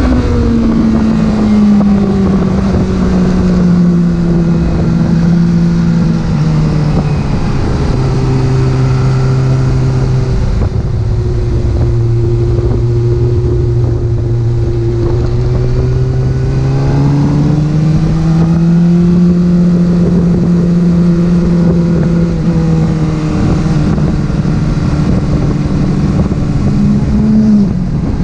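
Porsche engine running under way, its note sinking and rising slowly with road speed over steady road and wind noise. Near the end it climbs quickly, then drops suddenly.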